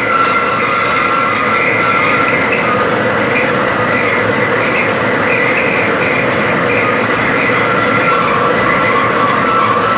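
Machine tool cutting metal: a loud, steady machining noise with several high whining tones held throughout.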